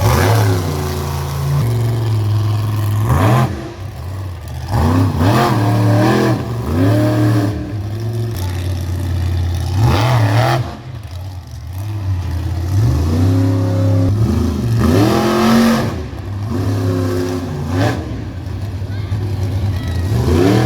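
Monster truck engine revving hard again and again, its pitch climbing and falling about seven times over a steady low engine note.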